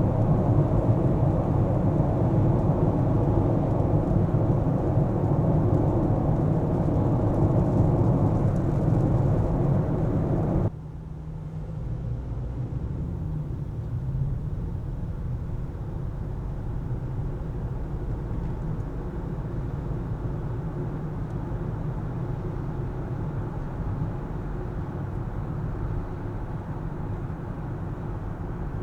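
Car driving noise: a steady rumble of engine and tyres on the road. About ten seconds in it drops suddenly to a quieter, steady hum.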